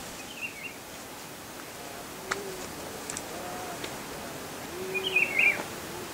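Birds calling over a steady outdoor hiss: a short warbled chirp near the start and a louder warbled call about five seconds in, with lower rounded notes and a few faint clicks in between.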